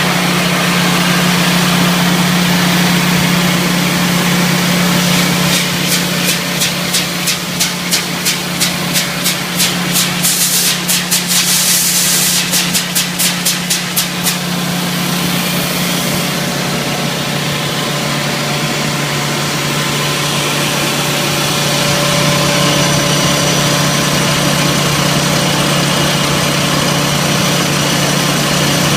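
25 HP Quincy rotary screw air compressor running with a steady hum and hiss. From about six seconds in, a run of rapid, evenly spaced pulses, about three a second, lasts some eight seconds, with a burst of air hiss in the middle, before the steady running resumes.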